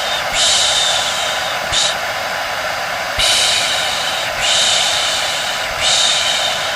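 Rhythmic shushing ('shh'), repeating roughly every second or so, most strokes about a second long with a couple of brief ones, over the steady whir of a hair dryer: a soothing noise for settling a baby to sleep.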